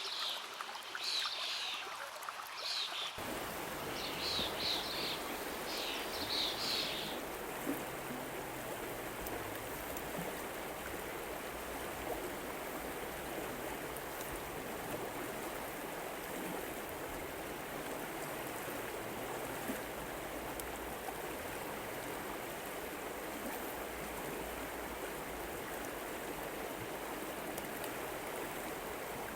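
Steady rushing of a flowing river, which comes in suddenly about three seconds in. Over the first seven seconds or so, short high chirping calls repeat roughly once a second.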